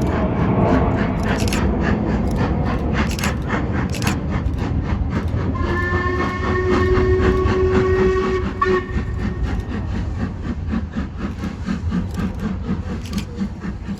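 Train passing through a station with a steady rumble and repeated clicks of wheels over rail joints. A horn sounds once for about three seconds midway through.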